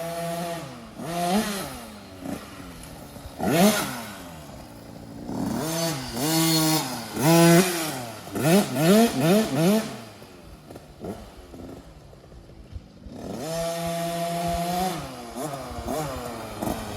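Husqvarna TC50 50cc two-stroke dirt bike engine revving up and down as it is ridden around the track, its pitch climbing and falling with the throttle. There are several short rises, a quieter lull just past halfway, then a steady high rev near the end.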